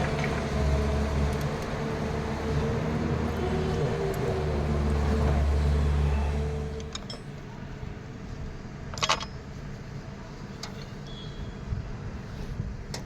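An engine running with a steady low hum that dies away about seven seconds in. After that a sharp metallic clink comes about nine seconds in, with a few lighter clicks.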